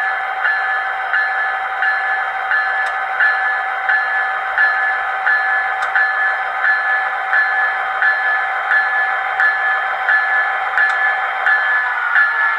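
HO-scale MP36PH-3C model locomotive's ESU LokSound Select sound decoder playing its diesel engine sound through a small speaker, thin with no bass. A ringing tone repeats steadily about every two-thirds of a second over the steady engine hum.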